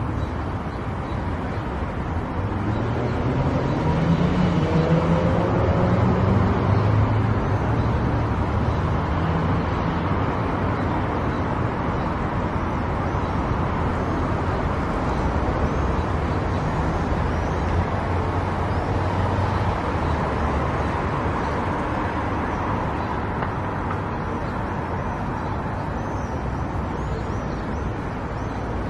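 Car driving on the road: steady engine and tyre noise, with the engine rising in pitch about three seconds in as the car speeds up, then running on at a steady drone.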